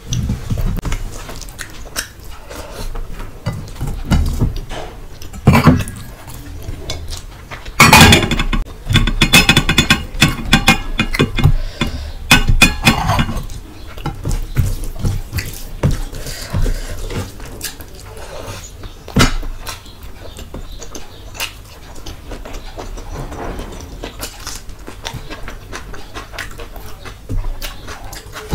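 Close-miked mouth sounds of eating: wet chewing and lip smacking, with the soft squelch of rice and curry being mixed by hand. A louder, busier stretch of mouth noises runs from about eight seconds in for some five seconds.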